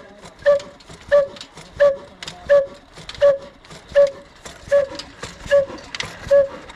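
Old 22 hp Ruston-type diesel engine running slowly, with a sharp metallic beat and a ringing note about once every 0.7 seconds. The beats come a little further apart toward the end.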